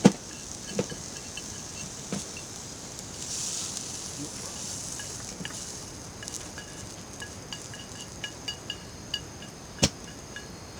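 Steady chorus of insects trilling and chirping, with a few sharp clicks or knocks, the loudest right at the start and another near the end.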